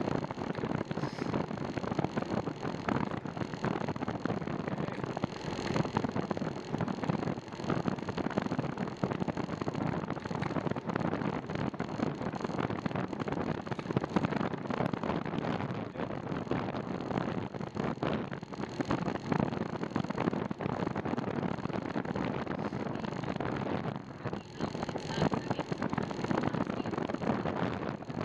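Steady rushing wind noise on the microphone of a camera riding on a moving bicycle.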